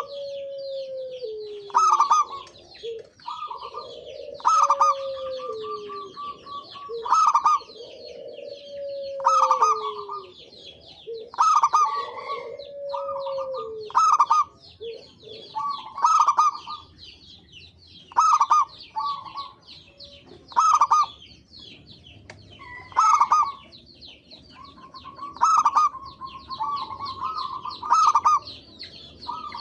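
Zebra doves (perkutut) cooing: a phrase of short, sharp coos repeated about every two seconds, with a lower note that slides downward in the first half. Fine, high chirping runs underneath.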